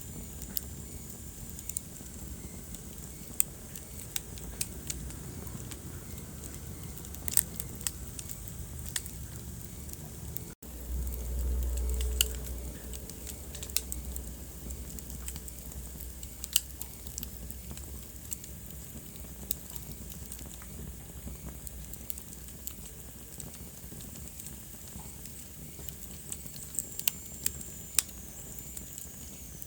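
Wood fire crackling in a fireplace, with scattered sharp pops over a steady low rumble of flames. About ten and a half seconds in, the sound drops out for an instant, then the low rumble runs louder for a few seconds.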